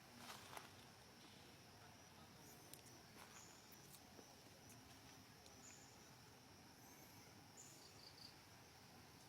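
Near silence: a faint steady hiss with a few soft clicks and faint, short, high chirps, three in quick succession near the end.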